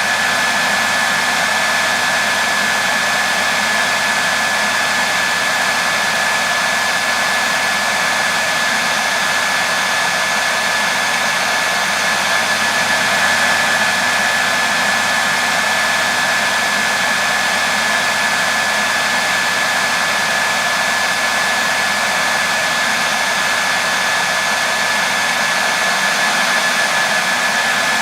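Hair dryer running steadily: an even rush of blown air with a constant high motor whine.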